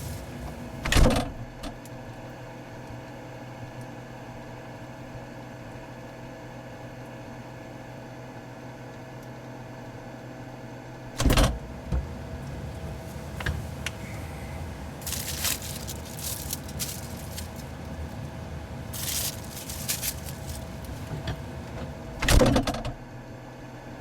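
Refrigerator humming steadily, with a heavy thud about a second in, another near the middle and a last one near the end, where the hum stops. Brief rustling noises come and go in the second half.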